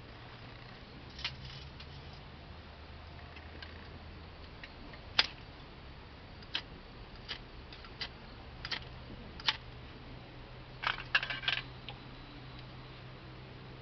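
Dry cedar leaves and tinder crackling: scattered sharp single cracks every second or so, with a quick run of several together near the end, over a faint steady hum.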